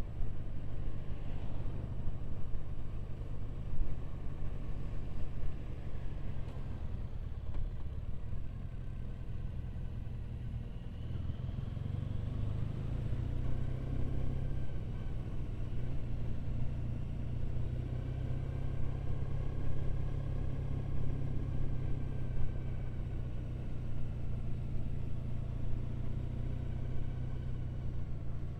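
Motorcycle engine running under way, most likely the rider's own Triumph Bonneville parallel twin, over a steady low rumble. The engine note rises and falls a couple of times midway through as the speed changes.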